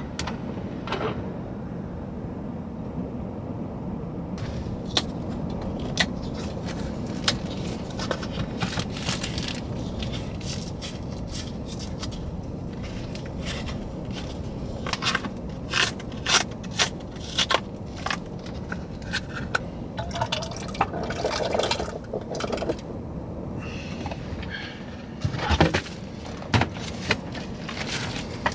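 Cooking in a small van kitchen: scattered clicks and knocks of a pot, pan and utensils, with some liquid sounds, over a steady low rumble.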